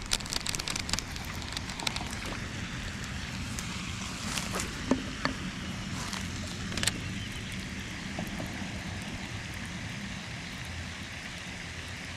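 Steady outdoor background noise with scattered light clicks and ticks, bunched in the first second and a few more about five and seven seconds in.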